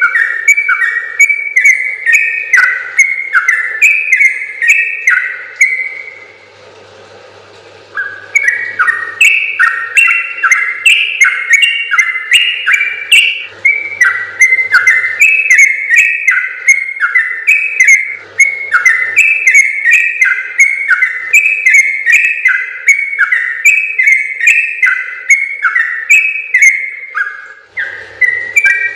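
Yellow-vented bulbul (trucukan) singing a long, fast run of bubbly, whistled notes without a break, except for a pause of about two seconds around six seconds in.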